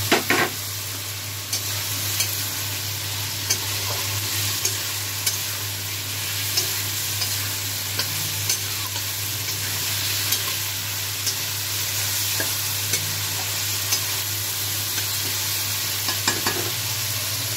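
Potato and vegetable chunks sizzling in hot oil in a kadai, stirred with a spatula that scrapes and taps the pan about once a second. There is a louder clatter right at the start and again near the end.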